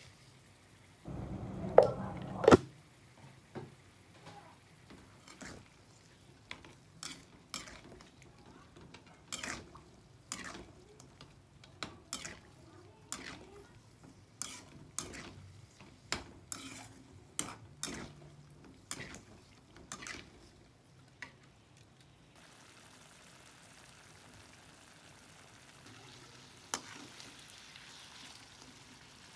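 Kitchen cooking sounds: two sharp knocks near the start, then a utensil tapping and clinking against a pan in irregular strokes for about twenty seconds. After that comes a faint, steady frying sizzle.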